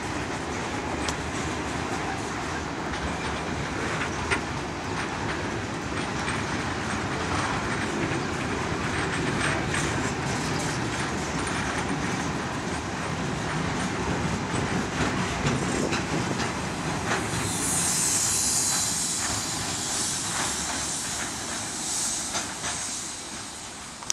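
Loaded freight train rolling past, its wagon wheels clattering over the rail joints. A high-pitched wheel squeal rises about two-thirds of the way through and fades over a few seconds.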